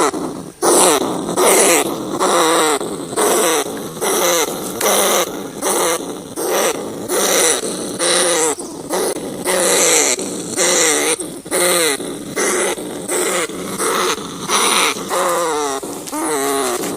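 Rats giving harsh, wavering squealing calls over and over, about one a second, with no pause.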